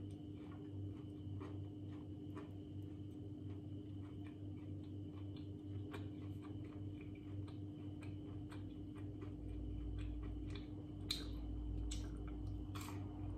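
Crispy fried battered pork being chewed close to the microphone: a run of small crunching clicks, about two a second, with a couple of louder crunches near the end as another bite is taken. A steady low hum runs underneath.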